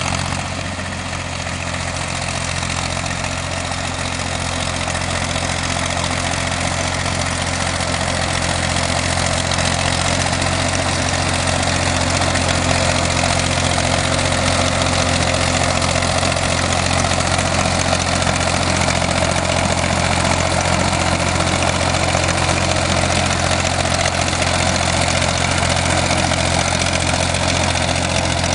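Massey Ferguson tractor's diesel engine running steadily, a constant low engine drone that grows slightly louder over the first several seconds.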